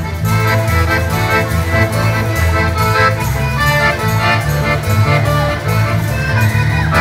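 An accordion-led ensemble playing live: the accordion carries the melody over steady bass notes, with hand percussion keeping a regular beat.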